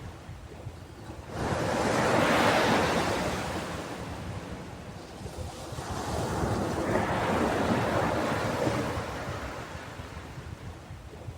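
Ocean surf on a beach: a wave surges in and washes back about a second in, and a second, longer swell follows midway.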